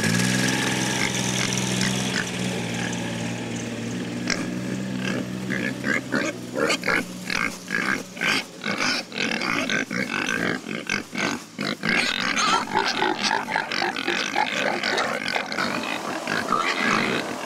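A vehicle engine running steadily fades out over the first few seconds. Then a group of pigs grunt and squeal in quick, overlapping calls.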